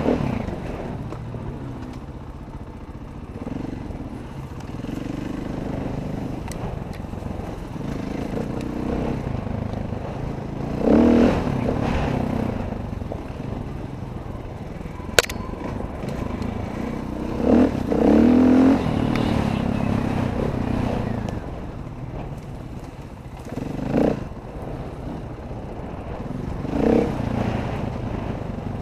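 Dirt bike engine running while riding, revving up in short surges several times as the throttle is worked, with a single sharp click about halfway through.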